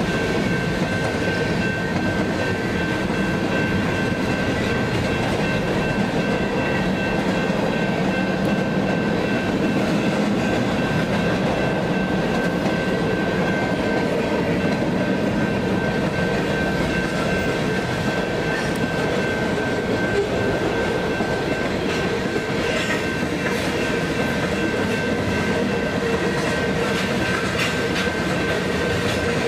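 Train cars rolling steadily past on the rails, with wheels clicking over the rail joints and a steady high-pitched ring over the rumble.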